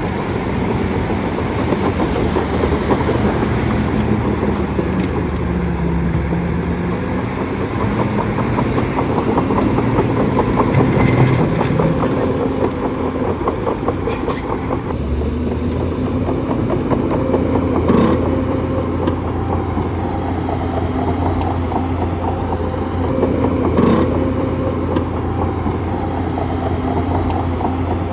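Bulldozer's diesel engine running steadily, its pitch rising and falling with the load, with a few sharp knocks in between.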